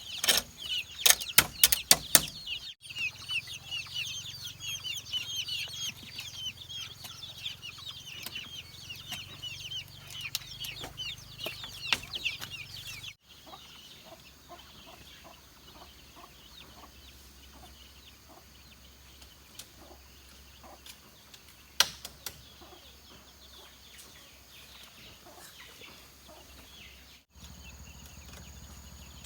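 A flock of chickens cheeping with many short, high chirps, with a few sharp clicks in the first couple of seconds. About halfway through the sound cuts to a quieter stretch of soft ticking and a couple of sharp knocks.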